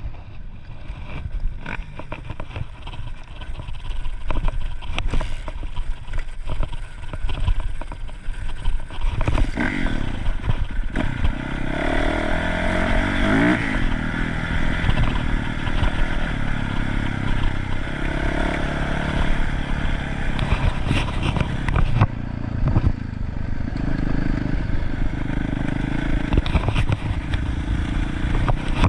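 Dirt bike engine running under way, its pitch rising and falling with the throttle. There are frequent knocks and rattles throughout.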